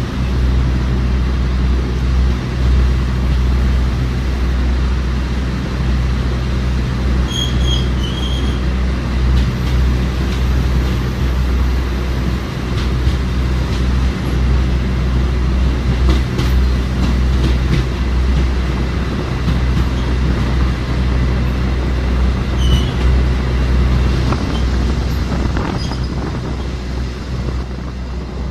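Diesel-hauled Argo Parahyangan passenger train running through a long railway tunnel: a loud, steady rumble of wheels on track and the engine, with short high squeals from the wheels around 8 seconds in and again near 23 seconds.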